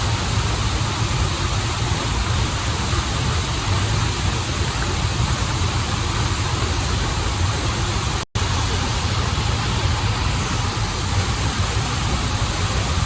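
Steady rushing of a waterfall and flowing stream, with a deep rumble beneath the hiss of the water. The sound cuts out completely for an instant about eight seconds in.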